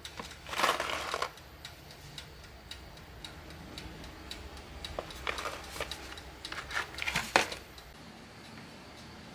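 Steady light ticking, about two to three ticks a second, with brief louder rustling noises about a second in and again between five and seven and a half seconds in.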